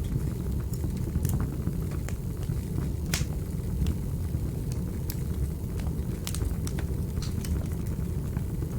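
Wood fire crackling in a fireplace: irregular sharp pops and clicks over a steady low rumble of the flames, the loudest pop about three seconds in.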